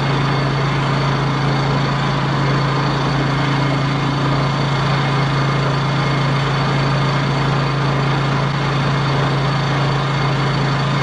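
WEN 56200i 2000-watt inverter generator's small four-stroke engine running steadily in eco mode, off choke, with an even, unchanging hum.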